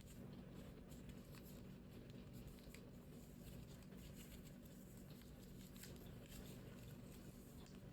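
Faint rustling and soft ticks of paper being handled and creased while folding origami, over a low steady hum.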